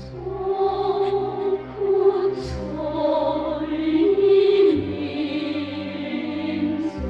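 Choir singing long, held notes in harmony over orchestral accompaniment.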